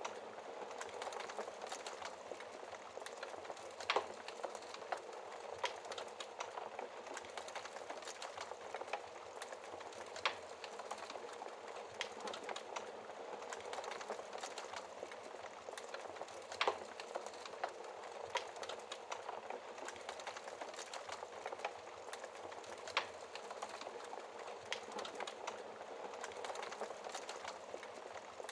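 Wood fire crackling steadily in a fireplace, with a sharper pop every few seconds.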